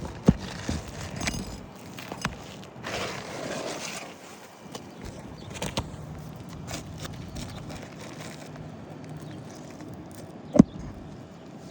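Hand work on a shingle roof during a shingle replacement: scattered knocks and taps, a rough scrape about three seconds in, and one sharp knock near the end.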